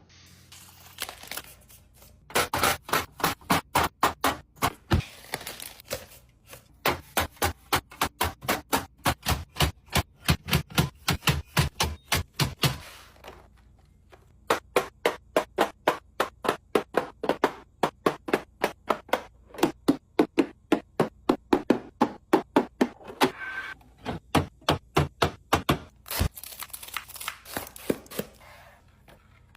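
Rapid, evenly spaced sharp knocks, about three a second, in long runs broken by short pauses.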